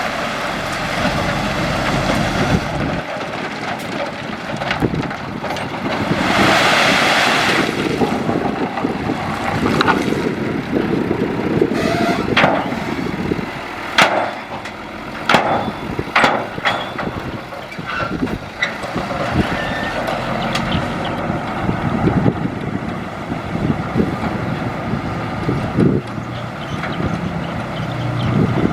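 Heavy diesel earthmoving machinery (dump truck and bulldozer) working stone: engines running steadily, with a loud rushing burst about seven seconds in and a run of sharp knocks and clanks midway.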